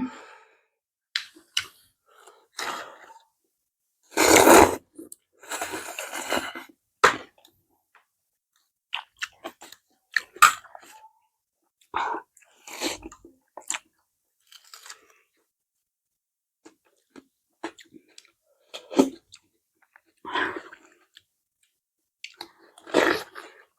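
Close-up mukbang eating: chewing and crunching of noodles and raw vegetables in irregular short bursts, with a longer, louder stretch about four to seven seconds in.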